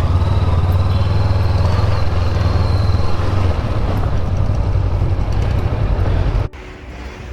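Motorcycle on the move: a steady low engine rumble mixed with rushing road and wind noise, which cuts off suddenly near the end.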